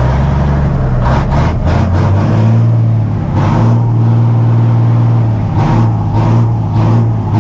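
Cummins diesel engine of an old dump truck running shortly after a cold start, a steady low drone with several short bursts of harsher noise on top.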